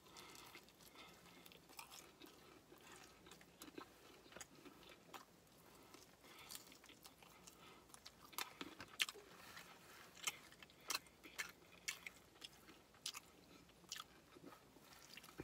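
A person biting and chewing a fried chicken wing close to the microphone: faint, with scattered sharp clicks that come more often in the second half.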